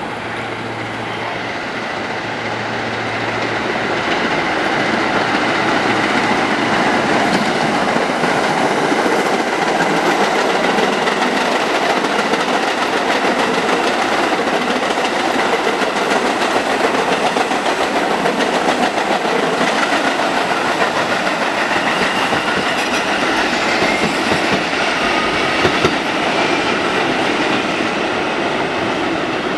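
New York City subway train running along the track, its steel wheels clicking over the rail joints. It grows louder over the first few seconds and then holds steady.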